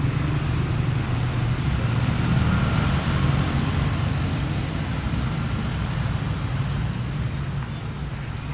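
Heavy trucks driving by on a busy road: a steady low engine rumble mixed with tyre and traffic noise, a little louder about two to three seconds in.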